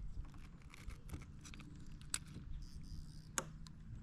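Faint handling noise: scattered light clicks and knocks, two of them sharper, about two and three and a half seconds in.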